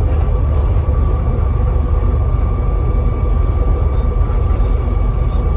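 Volvo B7TL bus's turbocharged diesel engine running under way, a heavy low rumble with a steady high turbo whistle over it.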